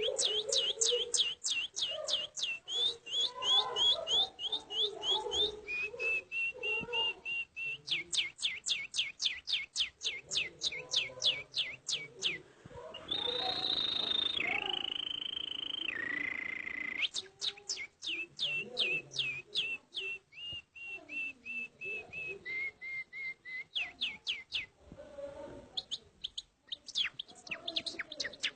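A man imitating birdsong by whistling: long runs of fast, sharp downward-sweeping chirps, about four or five a second, broken about halfway through by a few held whistled notes that step down in pitch before the chirping resumes.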